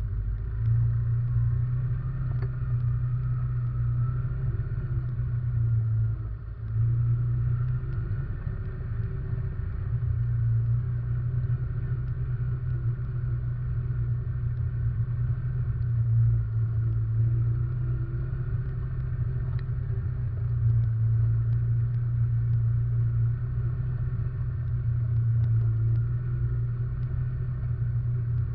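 Russian Mechanics RM 500 ATV engine running under way, heard from a camera mounted on the machine. It is a steady low drone that rises and falls with the throttle, with a short drop-off about six seconds in.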